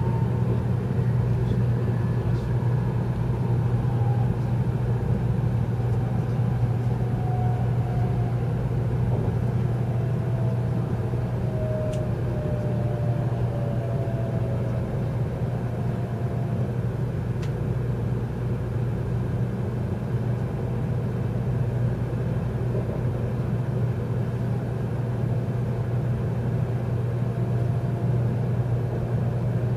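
Cabin noise of an N700 series Shinkansen running: a steady low rumble, with a faint whine that falls slowly in pitch over the first half as the train slows for a station stop.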